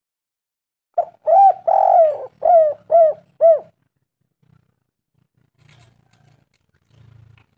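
Spotted dove (tekukur) cooing: one phrase of about six coos, one drawn-out note among them, starting about a second in and ending before halfway.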